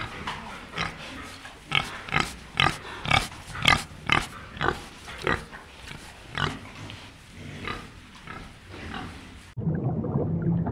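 Wild boar calling: a run of short calls, about two a second, thinning out after the first few seconds. About a second before the end the calls stop and a steady rushing noise takes over.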